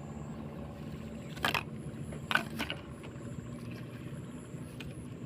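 A steady low drone, with three short crackles of plastic being handled, about a second and a half in and twice more around two and a half seconds in.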